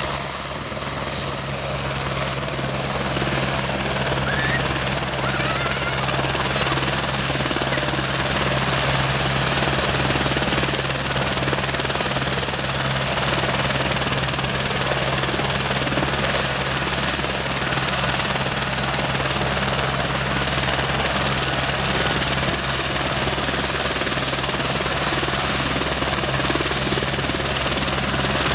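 Helicopter running steadily, a constant high whine over a steady low drone.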